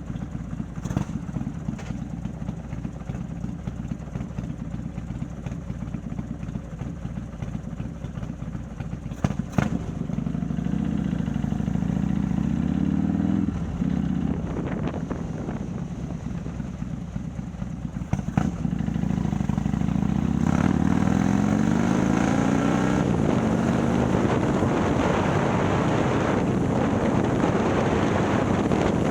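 Harley-Davidson Milwaukee-Eight V-twin, bored out to 130 cubic inches and fitted with a ThunderHeader exhaust, heard from the seat while riding. It starts with a steady low rumble. After about ten seconds the engine pulls with a rising pitch and drops at a gear change, and it does this again about two-thirds of the way in. It then settles into a louder, steady cruise with wind rushing past.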